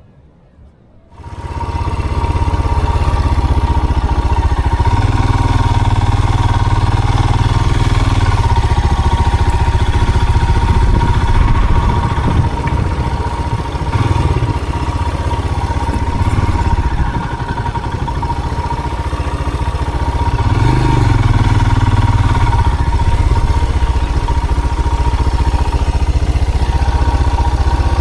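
A motor vehicle engine running loudly, cutting in abruptly about a second in and rising and easing off a few times as it is driven.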